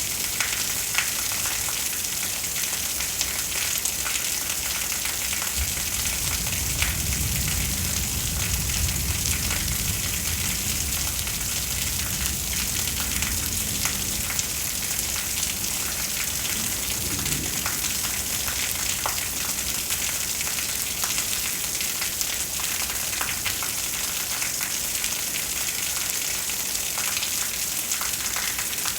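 Steady rain hissing down, with scattered drop ticks, during a thunderstorm. A low rumble of thunder swells about six seconds in and fades out around seventeen seconds in.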